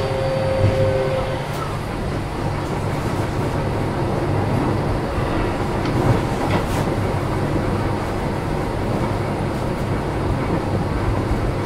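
Keio 7000-series electric train running, heard from inside a passenger car: a steady rumble of wheels on rails and car body. Two steady tones stop about a second in, and a few faint clicks come through later.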